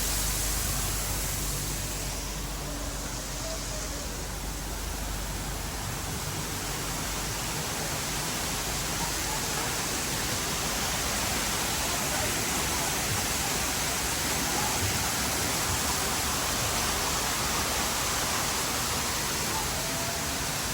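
Waterfall rushing steadily, a dense even hiss of falling water that eases slightly a few seconds in and then builds back.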